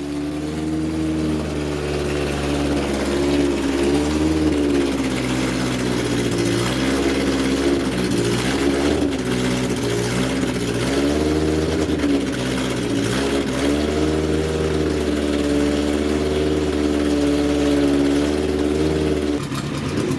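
A historic sports-racing car's engine running at a fast idle, with repeated throttle blips that swing its pitch up and down. Near the end it cuts abruptly to a different engine sound.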